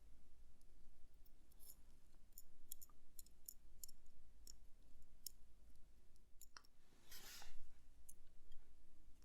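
Small, light clicks of metal watchmaking tools and tiny parts during hand assembly of a watch movement, scattered over several seconds. A short hiss comes about seven seconds in, over a steady low hum.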